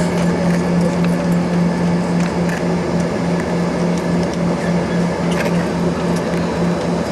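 Steady low hum of an Embraer 145 regional jet heard inside its cabin while the aircraft sits on the ground after landing, with a slight regular throb and a few faint clicks.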